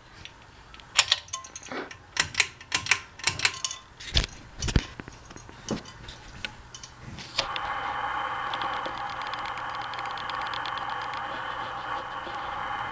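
Harbor Breeze Lakeside II ceiling fan: a run of sharp clicks and rattles for several seconds, then a steady hum of the fan running on low, starting about seven seconds in.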